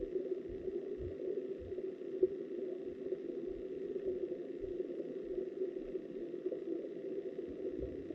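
Muffled rush of stream water heard from a camera submerged underwater: a steady hum with irregular low thumps, one sharper knock about two seconds in.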